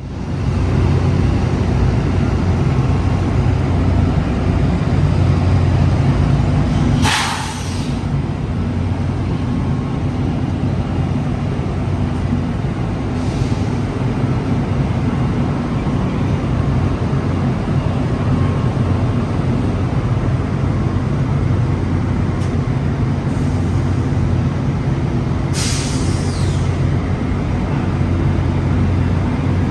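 Parked railway locomotive running with a steady low hum, broken by short hisses of escaping air from its air system: a loud one about 7 seconds in, fainter ones later, and another loud one near the end.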